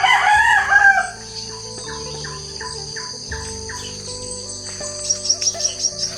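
Rural morning chorus: insects trilling steadily, with birds calling throughout. A loud pitched call comes in the first second, and a quick run of high chirps, about six a second, comes near the end.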